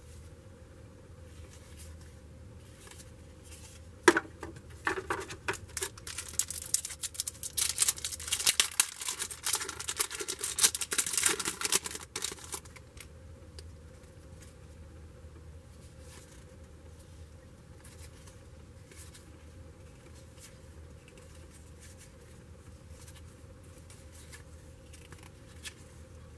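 A sharp click, then a trading-card pack wrapper being torn open and crinkled for several seconds, followed by faint ticks of cards being handled.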